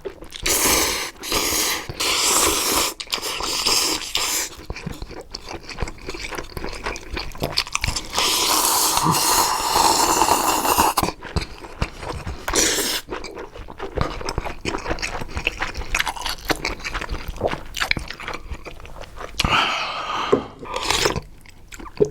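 Close-miked ASMR eating sounds: chewing and biting on chewy boba drink contents (tapioca pearls and jelly), wet and clicky. There are many short bursts and clicks, with one steadier stretch lasting about three seconds around the middle.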